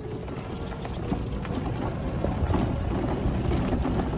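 Golf cart running with a steady low rumble.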